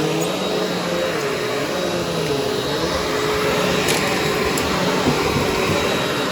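Vacuum cleaner running steadily while vacuuming a dusty carpet, its motor hum wavering slightly in pitch. A couple of faint clicks come about four seconds in.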